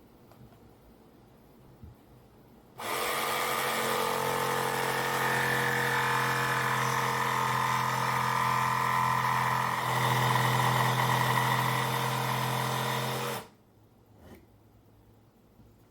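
Jigsaw cutting through fence-picket wood: the motor starts about three seconds in, runs steadily for about ten seconds with a slight change in pitch near the end, then stops abruptly.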